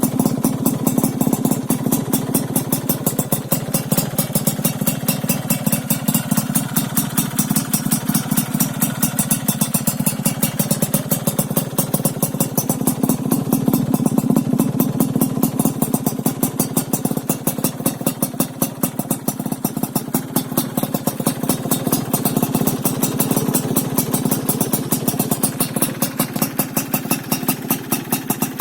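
Yamaha F1ZR two-stroke single-cylinder engine idling through an aftermarket expansion-chamber exhaust with a stainless silencer: a steady, fast popping beat that swells slightly about halfway through.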